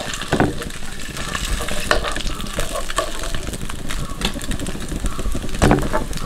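Mussels (kallummakkaya) sizzling as they fry in hot oil, with several sharp clicks of a utensil, the loudest near the end.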